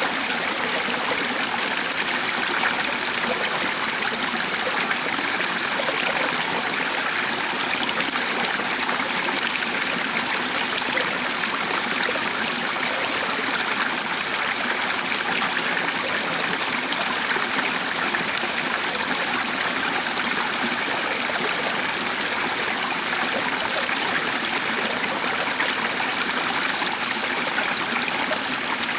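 A stream flowing in a steady, even rush of water.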